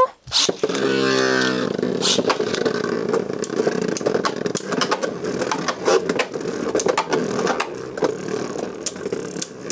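Beyblade launch and battle: a snap and about a second of ripcord-launcher whir, then the tops spinning in a plastic stadium with a steady hum and many sharp clicks as they clash.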